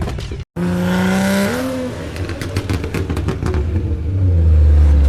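A vehicle engine revving and running, rising in pitch about one and a half seconds in, with a deep rumble that grows louder near the end. The sound drops out briefly about half a second in.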